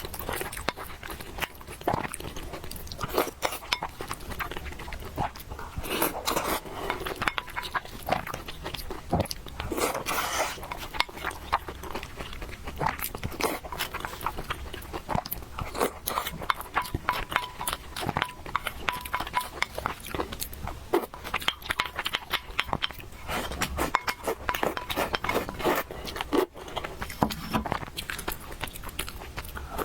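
Close-miked eating of noodles: continuous wet chewing, slurping and smacking mouth sounds in quick, irregular clicks.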